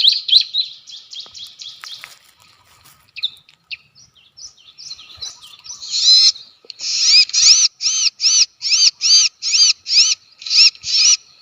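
Bar-winged prinia (ciblek) calls. A fast high chatter in the first two seconds, scattered notes, then from about six seconds in a regular series of sharp repeated notes, roughly two to three a second.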